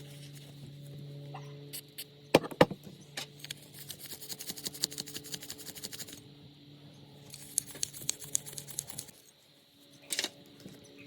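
Small hard objects being handled and tapped: two sharp knocks, then two runs of rapid light clicking and scratching, over a steady low hum.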